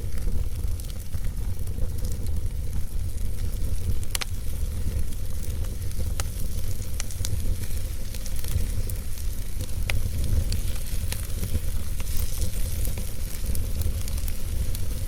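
Logs burning in a fireplace: a steady crackling hiss over a low rumble, with scattered sharp pops of the wood. The clearest pops come about four seconds in and about ten seconds in.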